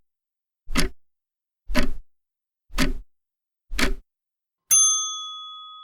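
Countdown timer sound effect: a clock ticks once a second, four times, then a single bell ding strikes near the end and rings on, fading slowly.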